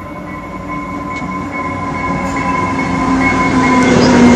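Diesel commuter-train locomotive approaching along the platform, growing steadily louder as it nears, with a steady high whine and a lower engine note; near the end the rush of the train going by takes over.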